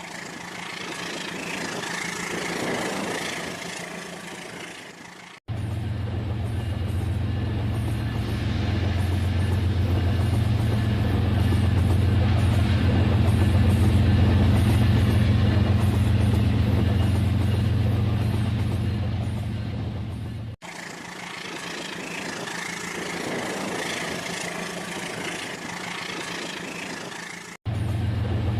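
RailKing model train running on its track, heard in several short cuts. In the longest cut a low hum swells and then fades as the train passes.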